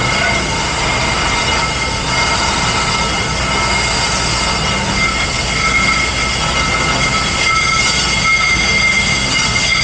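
Steady mechanical rushing noise of commercial dish pit machinery, with several steady high-pitched whines over it and no breaks.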